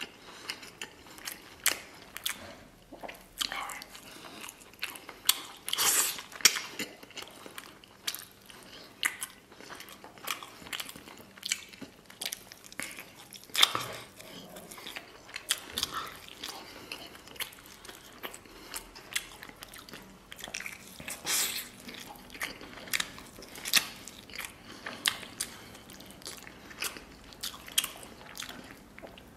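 Biting and chewing of braised lamb ribs as meat is torn off the bones by mouth: irregular snapping bites and chewing, a few much louder than the rest.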